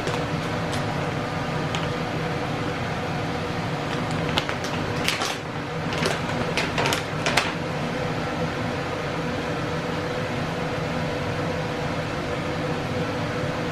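Steady hum of a fan or appliance motor, with a quick run of light clicks and clinks about four to seven seconds in.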